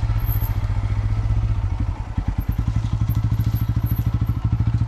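Motorcycle engine running while riding, a steady drone with a rapid even pulse that dips briefly about two seconds in.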